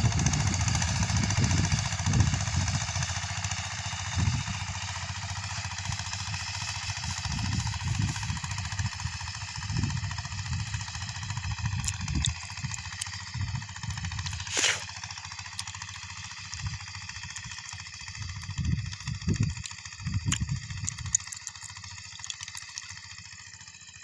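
Engine of a mini tractor sprayer running steadily with an even whine, over an uneven low rumble.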